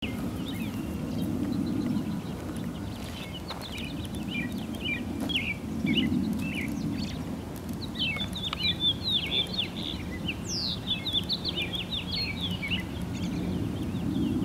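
Small birds chirping and trilling almost continuously, over a steady low rumble of outdoor background noise that swells and fades.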